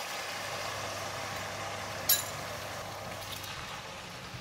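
Pork, ginger and spring onion sizzling in a wok with the sauce just poured in, the sizzle slowly dying down. A single sharp click about two seconds in.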